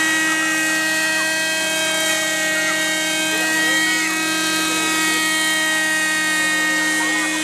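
Helicopter running at a steady pitch: a constant whine made of several tones, unchanging throughout.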